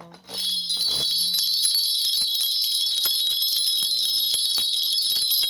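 Korean shaman's ritual bell rattle (a cluster of small brass bells on a handle) shaken continuously in a steady, bright jingling.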